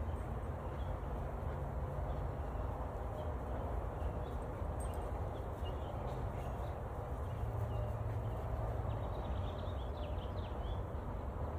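A steady, dense hum of many honeybees buzzing around a hive, a newly installed package colony working its way in through the entrance. A few faint bird chirps come in near the end.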